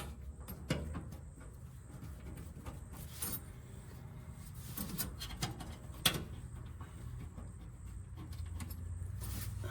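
Scattered light clicks and taps of screws being handled and started by hand, with one sharper click about six seconds in, over a low steady hum.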